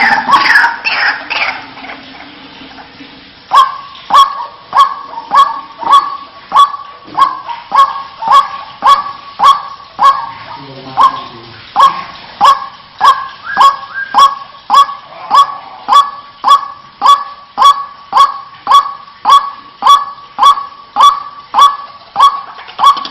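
White-breasted waterhen calling a loud, repeated 'wak' note, about one and a half times a second, each a short honk that drops in pitch. The call series starts about three and a half seconds in and keeps an even rhythm.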